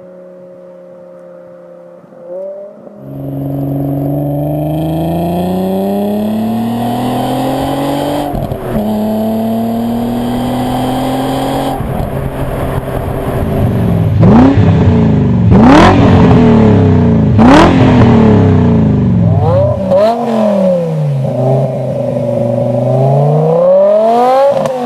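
Subaru Impreza WRX STi's turbocharged flat-four engine, tuned to about 400 hp, idling at first. About three seconds in it opens up loudly with the pitch climbing under acceleration, broken once about eight seconds in. Later come several quick revs up and down with sharp cracks.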